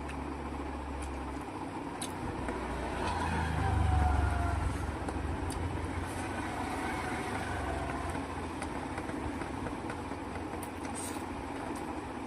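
A motor vehicle passing, growing louder to a peak about four seconds in and then fading, over a steady low hum.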